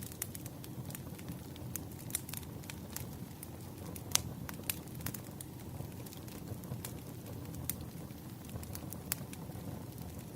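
Wood fire burning with a steady low rumble and scattered crackles and pops, the loudest pop about four seconds in.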